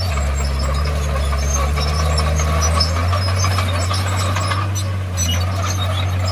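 Komatsu D51PX bulldozer's diesel engine running. Its note drops lower and heavier for about the first three seconds, then steadies.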